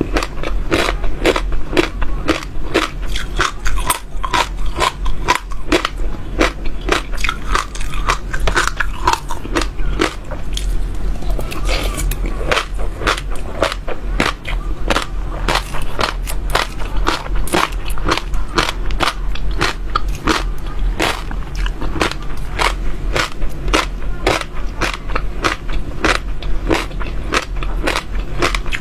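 Close-miked chewing: seeds crunched between the teeth in a continuous run of crisp cracks, several a second.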